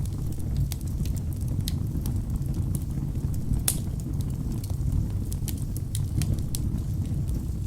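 Wood fire burning in a fireplace: a steady low rumble of the flames with frequent sharp crackles and pops from the logs, one louder pop about halfway through.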